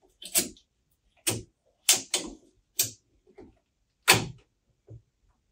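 A series of sharp clicks and knocks, about seven, spaced irregularly with short silences between them.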